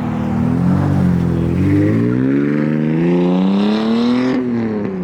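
Car engine accelerating hard, its pitch climbing for a couple of seconds. It drops sharply about four seconds in at a gear change and then climbs again.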